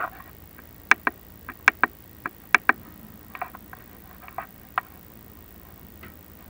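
Chimney video-inspection gear being worked down a clay-tile flue, giving about a dozen sharp, irregular clicks and taps over a few seconds.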